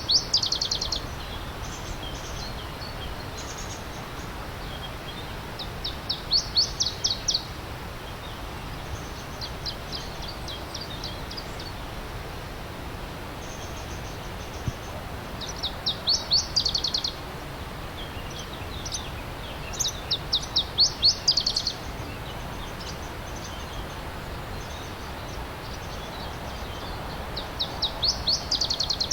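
A songbird singing short, fast trills of rapid high notes, about six phrases spaced a few seconds apart, over the steady rush of a stream.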